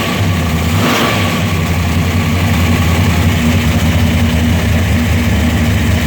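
Chevrolet 454 big-block V8 idling cold just after a cold start, a loud, steady low rumble.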